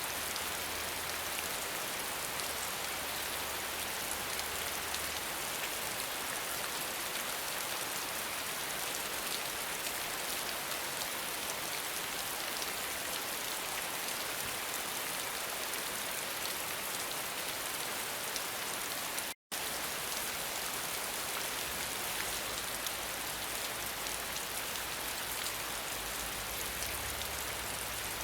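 Steady rain falling, an even, unbroken patter of drops. It cuts out completely for a split second about two-thirds of the way through.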